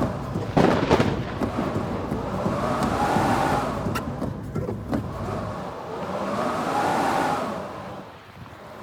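Strong wind gusting in waves, each gust rising and falling over three to four seconds, with a few sharp clicks about a second in and again around four to five seconds in.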